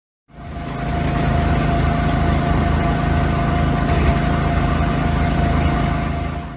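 Machinery engine running steadily with a low rumble and a constant whine, fading in just after the start and cutting off at the end.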